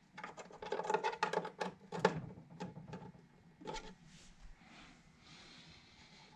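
A quick run of small clicks and rattles as a power plug is fitted into a resin 3D printer, then a few single clicks. Faint hiss in the second half.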